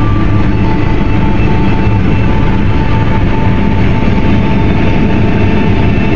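Combine harvester running steadily while cutting wheat: a loud, even mechanical drone with a low hum and a faint steady whine, no change in pace.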